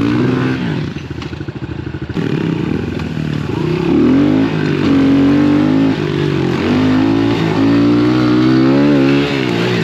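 A 110cc pit bike's small single-cylinder four-stroke engine revving up and easing off several times as it is ridden.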